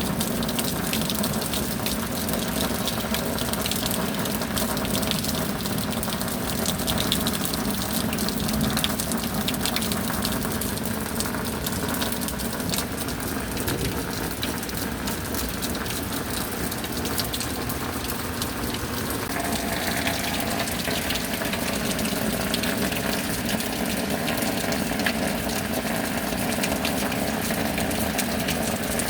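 Steady rushing of pouring rainwater, with a faint hum underneath whose pitch shifts about twenty seconds in.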